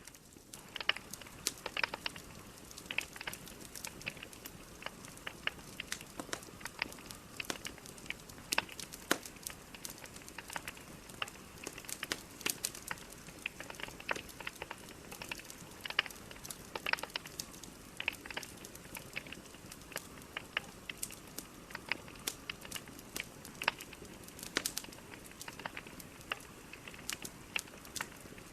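Burning logs crackling and popping in a fireplace: irregular sharp snaps, several a second, over a soft steady hiss of flame.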